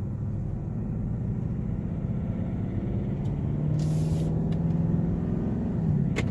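2018 Mustang GT's 5.0 V8 heard from inside the cabin, accelerating up through about 2,000 rpm, where a light rattle comes in and fades again by about 2,500 rpm. This 2,000 rpm rattle is common on these cars and the owner does not think it is fixable. The engine note dips just before the end.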